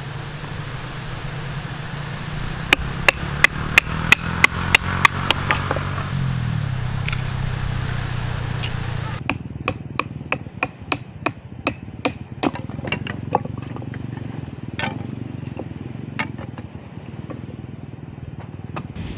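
Firewood being chopped with a blade, in two runs of quick, even strikes at about three a second.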